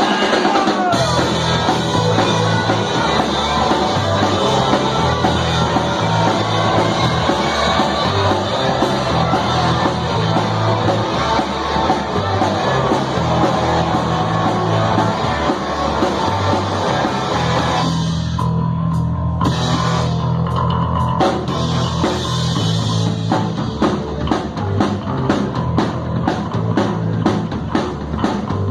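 Live garage-punk band playing a song loud, with drum kit, bass and fuzzed guitar. About two-thirds of the way through, the upper instruments drop out briefly while the low rhythm carries on.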